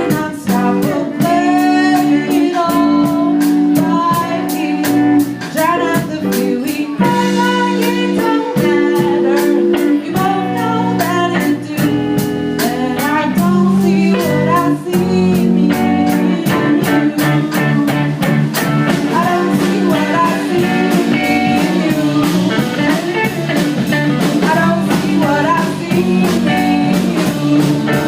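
A live band playing a blues-tinged song: electric guitar over bass and drum kit, with a bending melodic lead line above.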